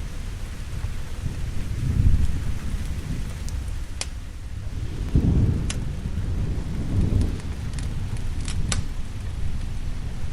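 Steady rain with low rolling thunder that swells three times, about two, five and seven seconds in. A few sharp crackles of a wood fire sound over it.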